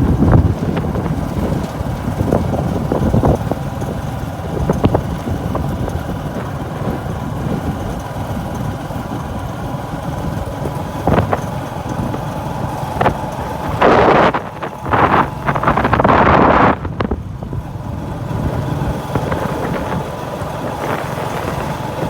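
Vehicle engine running steadily, with a few short knocks and several loud rushing bursts about two-thirds of the way through.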